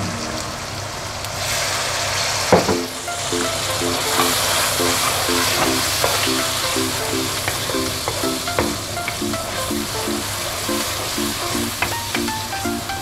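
Onions, whole spices and chopped tomatoes sizzling in hot oil in an aluminium pot while being stirred with a wooden spatula. The sizzle grows louder about a second and a half in, and there is one sharp knock a little later.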